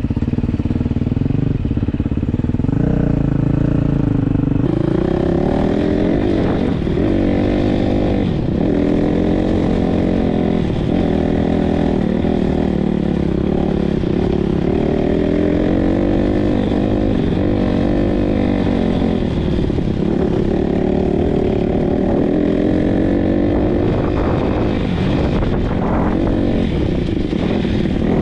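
Single-cylinder four-stroke dirt bike engine riding a trail. It runs fairly steady and low at first, then about four seconds in it revs up, and its pitch rises and falls over and over as the throttle is opened and closed.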